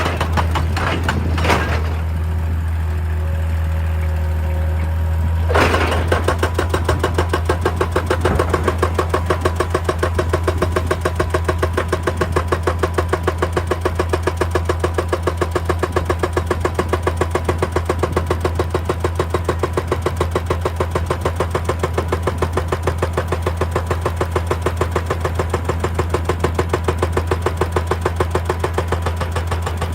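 Excavator diesel engine running steadily, with a few knocks near the start. About five seconds in, a hydraulic breaker starts hammering rock in a rapid, even train of blows that keeps going.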